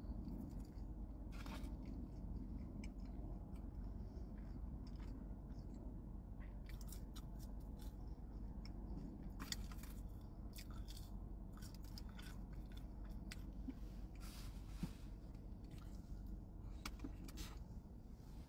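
Close-up eating sounds: chewing, with scattered small wet clicks and crackles, as a toasted sandwich and French fries are eaten, over a steady low background hum.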